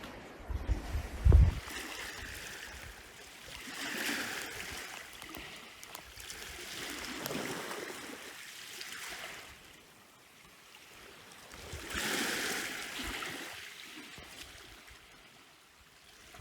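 Waves washing in on the shore, swelling and falling back three times. A few low bumps near the start.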